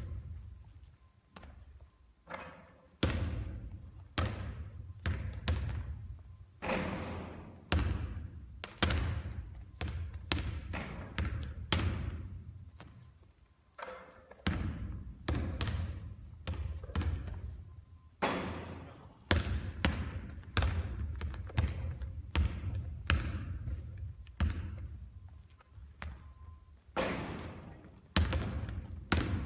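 Basketball bouncing again and again on a hard court in a large hall, each bounce a sharp thud with a ringing echo, some in quick runs of two or three.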